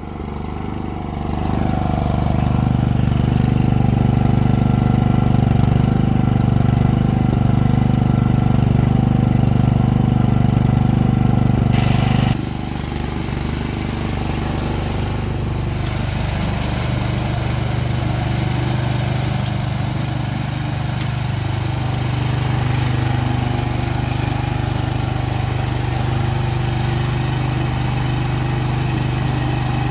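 Cub Cadet 2X snowblower's 357 cc Powermore engine running steadily at an even speed after its no-start was fixed by clearing bad gas, cleaning the carburetor and fitting a new spark plug. It comes up to speed over the first couple of seconds and drops slightly in level about twelve seconds in, then carries on steadily.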